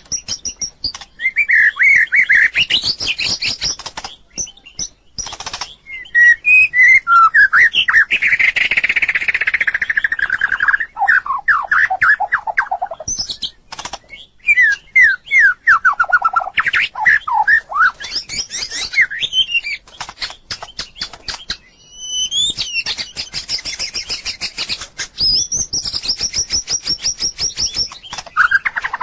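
White-rumped shama singing a loud, varied song of whistled phrases, some sweeping down in pitch and some held high, in bursts separated by short pauses, with many sharp ticks between the notes.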